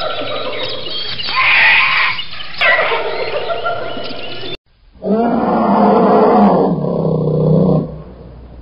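Animal calls in two parts: first several overlapping pitched calls, then, after a sudden brief break, one long low call lasting about three seconds.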